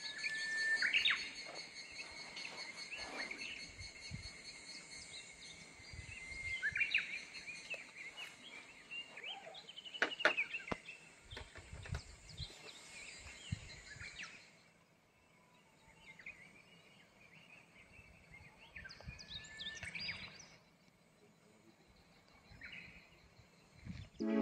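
Wild birds chirping and calling: scattered short chirps and trills. A steady high-pitched whine runs beneath them and cuts off abruptly a little over halfway through.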